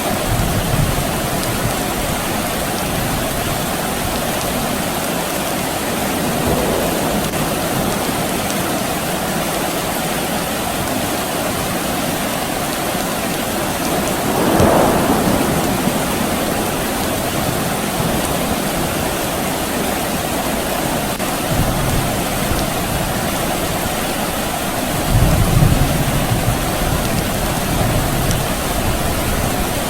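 Steady soft rain falling, with distant thunder rumbling low several times, the strongest roll about 25 seconds in. A brief louder swell of noise comes about halfway through.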